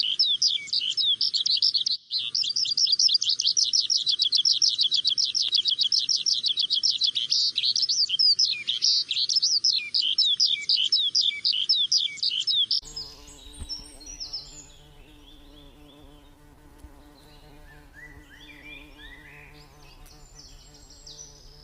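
Dense, rapid bird chirping, many quick notes a second, over a steady high whine. About thirteen seconds in it cuts off abruptly to a much quieter low steady hum with scattered bird chirps.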